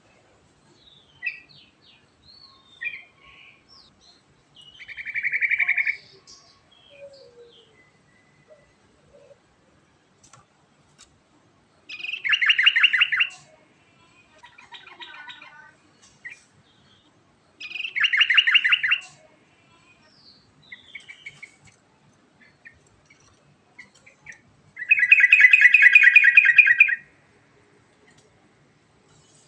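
Yellow-vented bulbul (trucukan) singing: four loud rolling trilled phrases of rapidly repeated notes, each a second or two long, the last and longest near the end, with soft scattered chirps between them.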